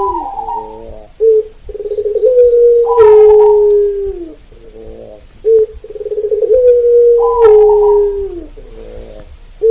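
Perkutut (zebra dove) cooing in a repeating sequence: short pulsed coos, then long held notes that sag in pitch at their ends, with a higher call over them. The sequence recurs about every four and a half seconds.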